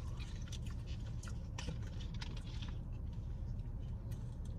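Close-up chewing and mouth smacking from eating pizza: many small wet clicks. Under it runs the steady low hum of an idling car.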